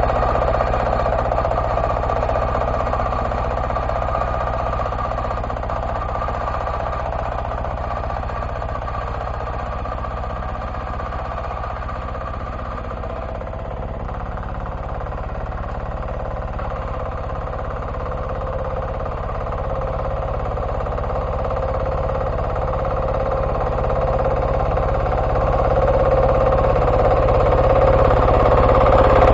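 Diesel engine of an MB2 walk-behind tractor running steadily, getting quieter toward the middle and louder again toward the end as the machine moves away and comes back.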